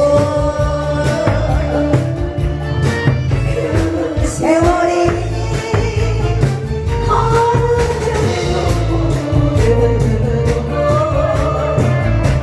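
A singer performing a song over an amplified backing track with a heavy, steady bass beat.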